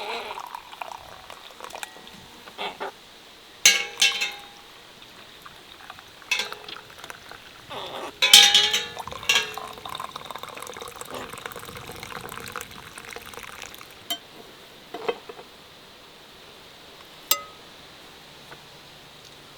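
Kitchen work: scattered clinks and knocks of pots, dishes or jars, some ringing briefly, with a denser clatter and liquid sounds about eight seconds in.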